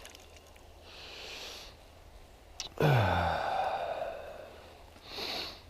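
A person sighing and breathing out. A short breathy exhale comes about a second in. A louder, low, falling voiced sigh follows near the middle, and another short exhale comes near the end.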